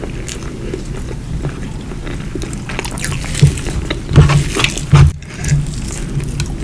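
Close-miked wet chewing and mouth sounds of eating, with small smacks and clicks throughout. Louder squishy bites or smacks come about three and a half, four and five seconds in.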